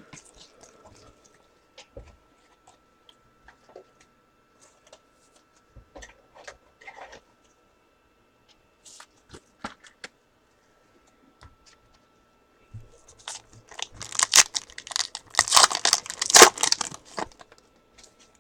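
Scattered light taps and clicks of trading cards being handled, then a few seconds of loud tearing and crinkling near the end as a trading-card pack wrapper is ripped open and crumpled.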